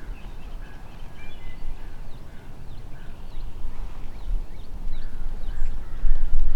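Low wind rumble on the microphone, growing louder toward the end, with faint scattered bird calls and chirps in the woods.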